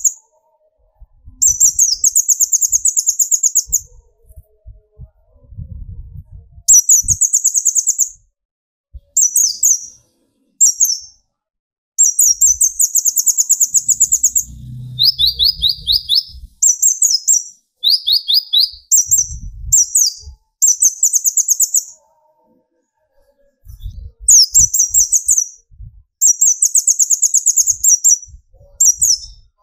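Brown-throated sunbird (konin, kolibri ninja) singing in bursts of very high, rapid trills, each one to two seconds long, separated by short pauses. About fifteen and eighteen seconds in it gives a lower, slower trill.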